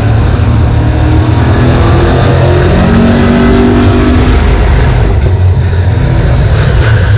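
Super stock race car engine running hard on track, with a heavy low rumble, rising in pitch a couple of seconds in as the car accelerates.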